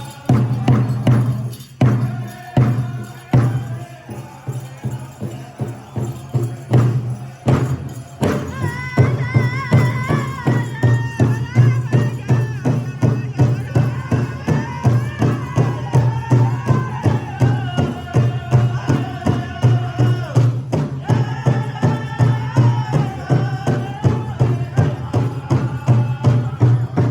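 Powwow big drum played by a drum group: uneven drumbeats at first, then a steady beat. Singers enter with a high, wavering song about eight seconds in.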